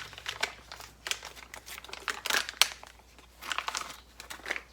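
Packaging crinkling and rustling as it is handled and opened, in short irregular crackles.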